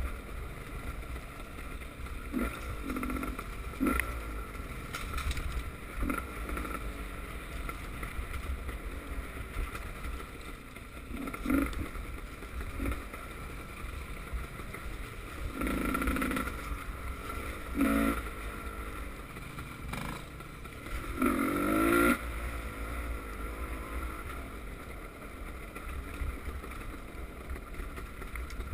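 Motocross motorcycle engines revving at a distance, rising and falling in repeated surges, the loudest about two-thirds of the way through, over a steady low rumble.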